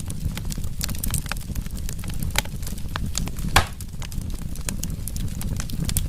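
Wood fire burning in a fireplace: a steady low rumble of the flames with constant crackling, irregular clicks and snaps, and one louder pop from the burning wood a little past halfway.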